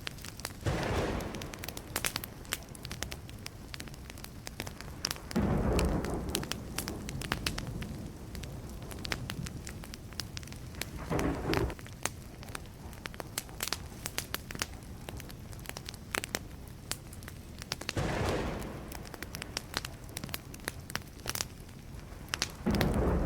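Wood campfire crackling, with many sharp pops and snaps, and five brief low rumbles spread through it.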